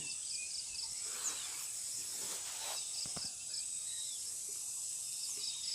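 Faint background insects chirping steadily in a high, evenly repeating pattern, with a steady high hiss underneath.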